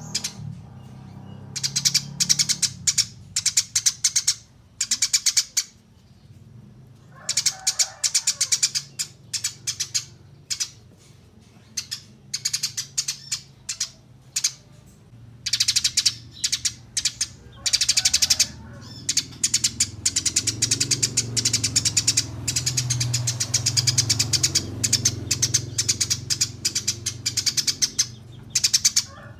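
Eurasian tree sparrows chirping in quick runs of short, high chirps with brief gaps between groups, turning into a longer unbroken chatter for the last third. A low steady hum sits underneath.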